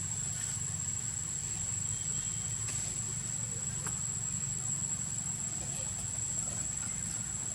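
Steady background noise: a constant low rumble under a thin, unchanging high-pitched whine, with a few faint ticks.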